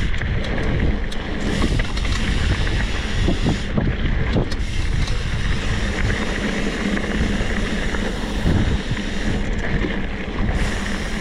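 Wind buffeting the microphone over the running engine of a small motorcycle, a steady rush with a low hum underneath.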